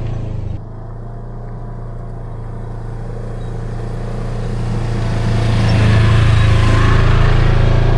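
Side-by-side UTV engine running while driving on a trail. It drops abruptly in level about half a second in, then grows steadily louder over the next few seconds.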